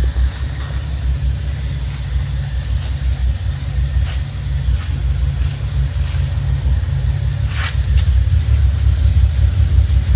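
Nissan Fairlady Z (S30) with a swapped-in L28 2.8-litre straight-six, idling with a steady low pulsing rumble. The engine is new, with 700 km on it, and still being run in.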